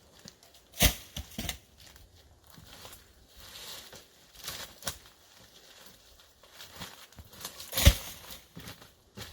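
Cut logs being rolled down a wooded slope: rustling and crackling through dry leaves and twigs, with two loud thuds, about a second in and near the end.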